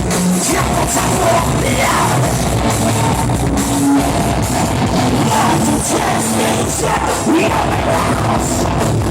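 Rock band playing live with drums, distorted guitars and a singer shouting the vocal.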